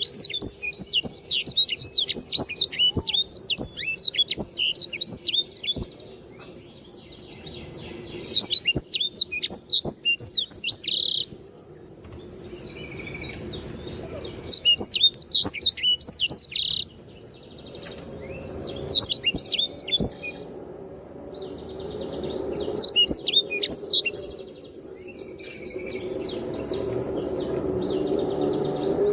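Sanger, a small canary-type songbird, singing in five bursts of fast, high twittering notes with short pauses between them. The first burst is the longest, about six seconds. A low steady hum underneath grows louder over the last third.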